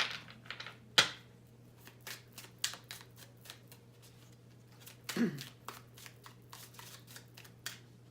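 Tarot cards being handled and shuffled by hand: a run of quick papery flicks and taps, with a sharper snap about a second in.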